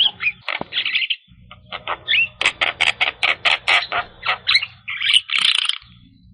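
Javan myna (jalak kebo) calling: a fast series of harsh chattering notes, about five a second, mixed with short whistled glides. Near the end comes a louder harsh burst, then a short pause.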